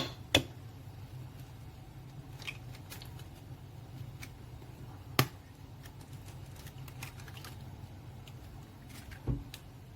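Eggs being cracked against the rim of a bowl: two sharp taps at the start, another about five seconds in, and a duller knock near the end, over a faint low hum.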